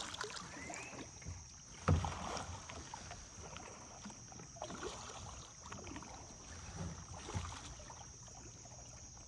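Kayak on moving river water: water washing against the hull and small knocks of paddle or gear on the boat, with one sharper knock about two seconds in.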